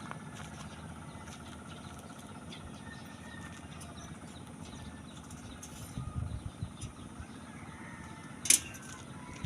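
Steady background noise with a brief low rumble about six seconds in and one sharp knock, the loudest sound, near the end.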